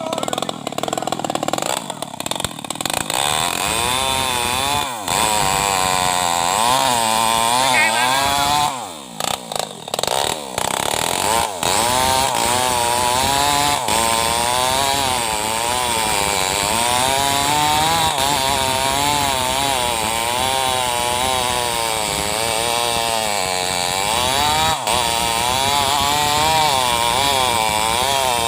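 New West 588 two-stroke chainsaw running hard, cutting into a mahogany trunk. Its pitch wavers up and down as the engine loads and frees in the cut, with a brief drop about nine seconds in.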